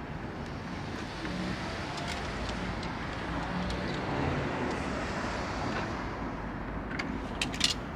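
Road noise from a passing car swells and fades away, followed by a few sharp clicks near the end.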